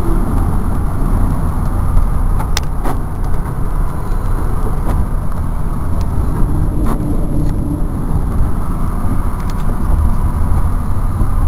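A car driving along at road speed, with a steady low rumble of road and engine noise.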